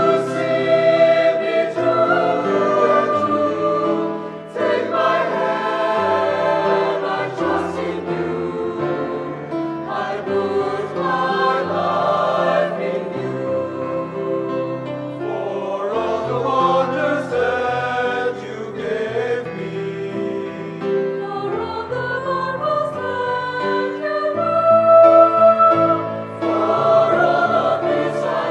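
Church choir singing a Christian anthem in several parts, held chords shifting phrase by phrase with a low accompaniment beneath.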